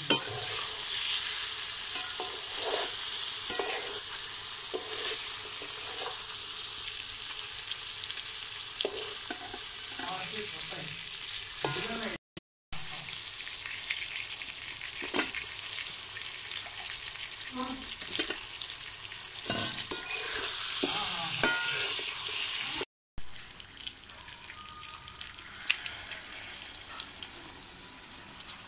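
Chicken curry masala sizzling as it fries in an aluminium kadai, with a wooden spatula scraping and stirring it against the pan. The sizzle drops quieter after a brief gap about two-thirds of the way in.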